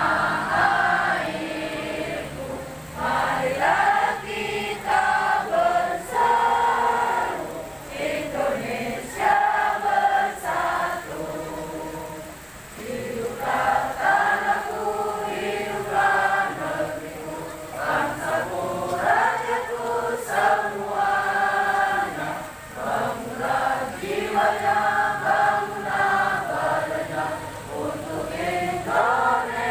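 Many voices singing together in chorus, a sung song in phrases with short breaks between them.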